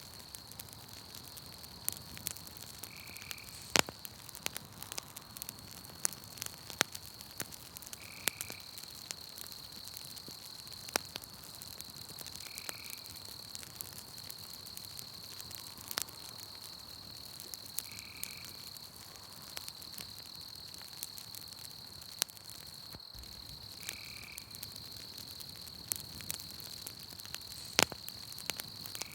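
Campfire crackling, with scattered sharp pops, over a steady high-pitched drone of night insects and a short call that repeats about every five seconds.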